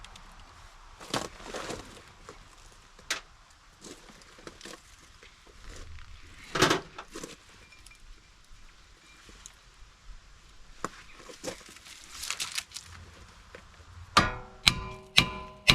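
Scattered clinks and knocks of tools being handled. Near the end comes a run of hammer blows on a brake rotor, about two a second, each one ringing out, as the rotor seized on the hub is knocked loose.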